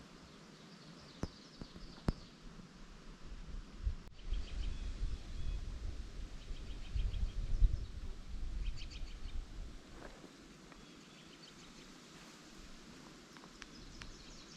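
Small songbirds calling in short, quick trills of high chirps, repeated every second or two. A low rumble comes in about four seconds in and fades out around ten seconds, with a couple of sharp clicks before it.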